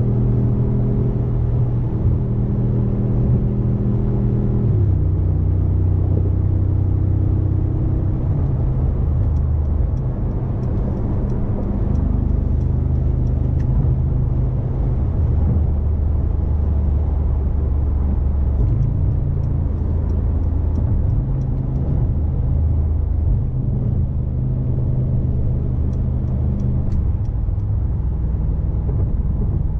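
2019 Mercedes-AMG G63's 4.0-litre twin-turbocharged V8 running under light driving: a low, steady drone whose pitch steps down and back up several times as the gears change.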